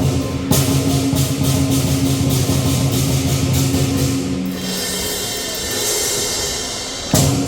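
Lion dance percussion band of drum, cymbals and gong beating a steady rhythm. A little past halfway the drum drops out and the cymbals ring on in a held shimmer, then the full band crashes back in near the end.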